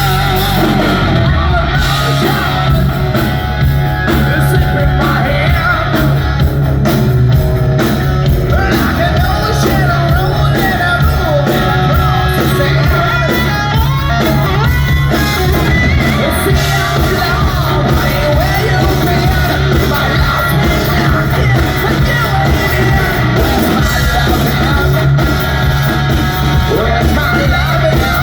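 A hard rock band playing live at steady full volume, with a singer's wavering vocal line over driving drums and bass.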